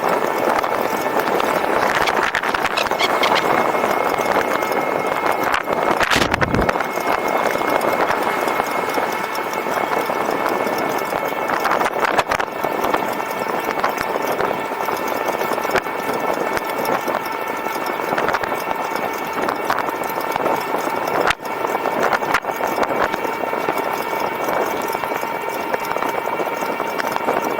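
E-bike under way: a steady whine from the electric motor over a constant rush of wind and road noise, with scattered rattles and a low thump about six seconds in.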